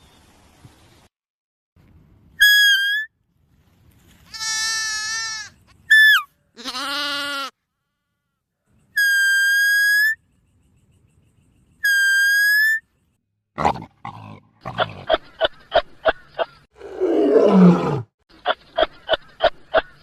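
A string of separate animal calls with silent gaps between them. First come short, clear pitched calls, some flat and some wavering, and a bleat-like call. Then come runs of rapid pulsed calls, with a falling, rasping call between them near the end.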